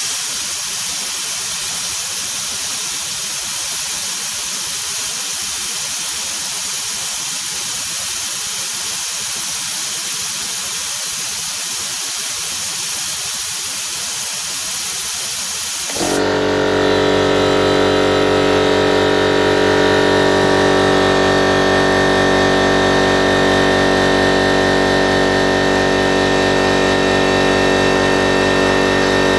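Air compressor setup: a steady hiss of air for about sixteen seconds, then the compressor's electric motor and pump start abruptly and run with a steady, many-toned hum.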